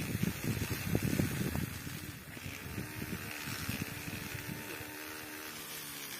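Small electric motor of a DIY toy mini tractor machine running, with a dense rattle of knocks over the first couple of seconds, then settling to a steadier hum.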